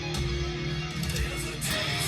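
Electric guitar playing.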